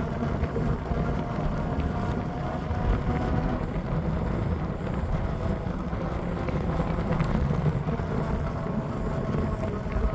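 Steady rumble of a moving bike ride, with wind buffeting the microphone and a few faint steady tones above it.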